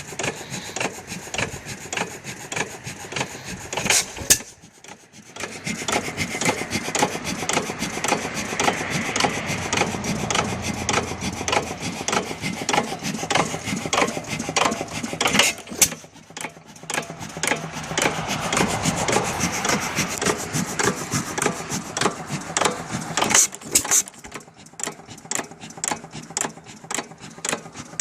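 5 hp Monitor hit-and-miss engine running with a fast, steady clatter from its mechanism. A louder bang comes three times, roughly ten seconds apart, each followed by a brief lull.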